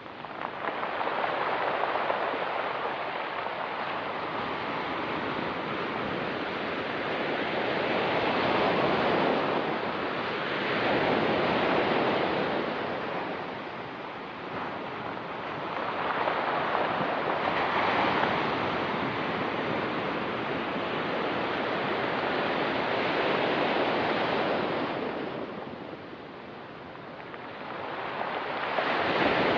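Ocean surf breaking on a rocky beach, a steady wash that swells and ebbs with each wave, dipping twice before building again near the end.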